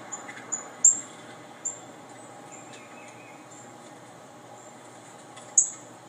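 Short, very high chirps of a small bird, played back from a bird video: a quick run of them in the first two seconds, the loudest about a second in, then one more near the end, over a faint steady hiss.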